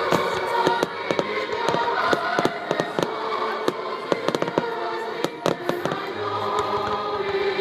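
Fireworks shells bursting and crackling in quick succession, many sharp bangs throughout, with music playing along with them.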